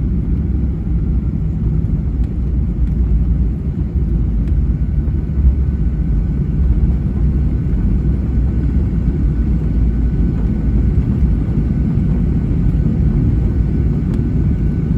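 Steady low rumble inside the cabin of a Boeing 737-800, from its engines and airframe, holding an even level throughout.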